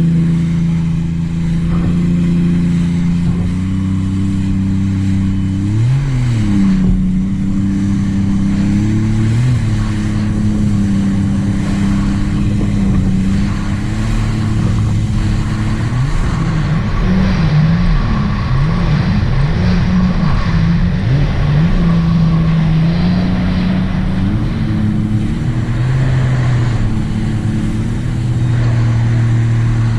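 2018 Sea-Doo RXT-X 300 personal watercraft's supercharged three-cylinder engine, fitted with a free-flow exhaust, running at low throttle. Its pitch rises briefly about six seconds in and again a few seconds later, then wavers unevenly for several seconds past the middle.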